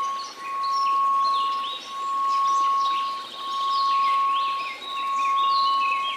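Steady pure tone of about 1098 Hz that swells and dips about every one and a half seconds, over a soft white-noise hiss, with birds chirping and trilling.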